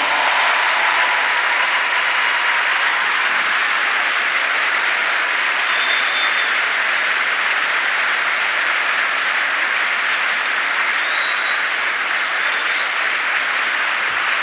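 A large audience applauding steadily, a long unbroken round of clapping.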